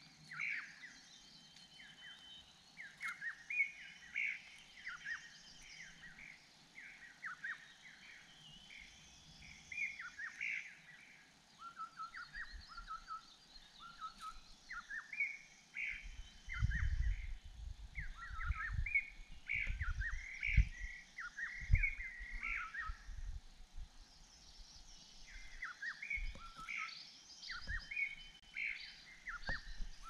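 Small birds chirping: a steady run of short, falling chirps, with low thumps and rumbles through the middle stretch.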